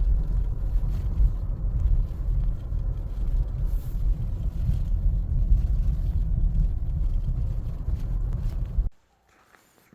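2024 Hyundai Tucson being driven, a steady low road-and-drive rumble, which cuts off suddenly near the end.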